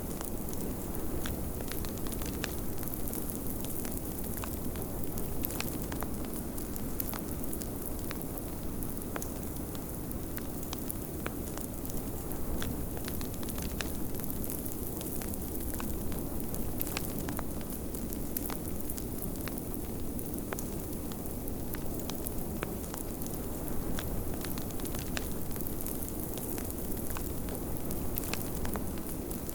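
Wood fire crackling in a fireplace, with sharp pops scattered throughout, over a steady low rush of blizzard wind.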